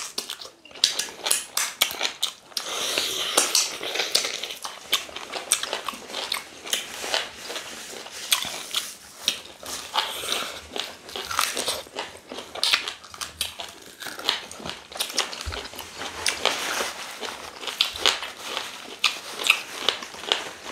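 People eating, biting and chewing meat off the bone with ogbono soup and fufu, with many short mouth clicks and smacks throughout.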